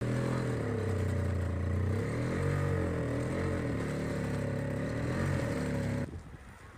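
Gasoline snowblower engine running steadily, its pitch wavering up and down as it takes the load of the snow, then cutting off abruptly near the end.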